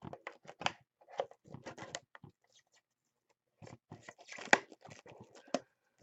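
Trading-card packaging being torn open and crinkled: crackly tearing of wrapper or film in two bouts, the second with a few sharper snaps.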